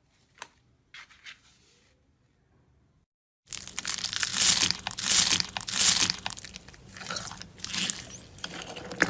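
A few faint clicks, then from about a third of the way in, loud crisp crunching as something crunchy is pressed or cut, in a series of crunches about one or two a second.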